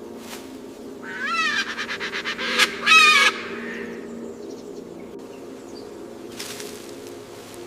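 A bird calling: a rising call about a second in, a quick run of sharp clicking notes, then a second, louder call near three seconds, over steady background music.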